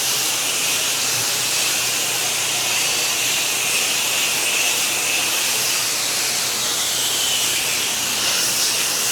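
Spray wand hissing steadily as it lays a light coat of cleaning solution onto surfaces.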